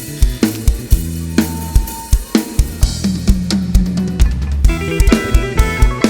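Live band playing a song intro: a drum kit keeping a steady beat of kick, snare and cymbals, about two hits a second, over bass guitar notes. Pitched instruments come in with chords about five seconds in.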